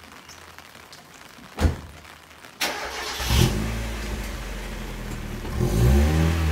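Mazda Roadster: a car door shuts with a single thud. About a second later the engine is started, catches with a rising flare of revs and settles into a steady idle. Near the end it is blipped up and back down once.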